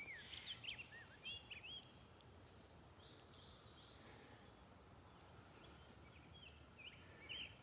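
Faint birdsong over quiet open-air ambience: a run of short, quick chirps, thickest in the first two seconds, with more scattered chirps later on.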